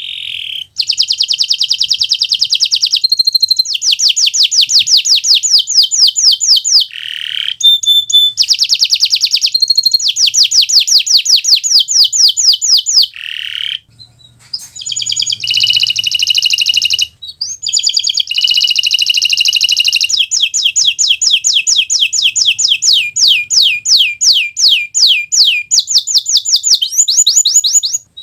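Domestic canary of the Kenari Nusantara type singing loud, nonstop song. It is made of long rolls of rapid, evenly repeated high trill notes, with a few brief breaks. Near the end the trill slows to fewer, sweeping notes.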